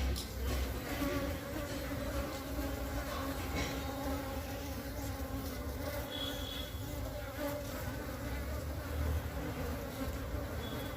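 Many Asian honey bees (Apis cerana) buzzing steadily, a continuous drone of wingbeats.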